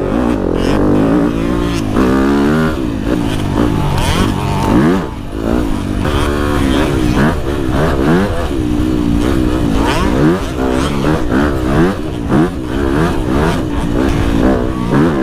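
A Yamaha WR250F's single-cylinder four-stroke engine on the move, revving up and dropping back again and again as the throttle is opened and closed through the gears on a dirt trail.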